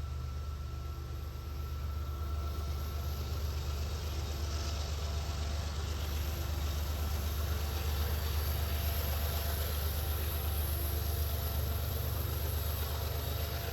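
BNSF diesel-electric locomotive running as the rear (distributed-power) unit of a long intermodal train passes: a steady low engine drone over the hiss of rolling wheels, swelling slightly in the middle and easing off near the end.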